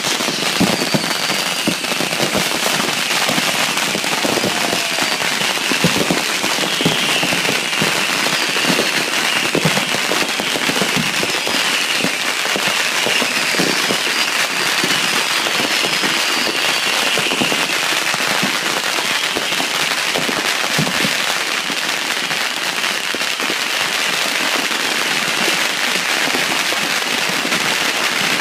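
Dense, continuous crackling of many firecrackers going off in rapid strings, with faint high whistles over it during the first half.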